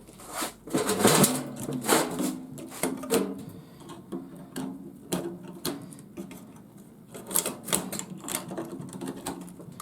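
Metal parts of a garage door opener and hand tools clicking and clattering in irregular knocks as the unit is taken apart for scrap.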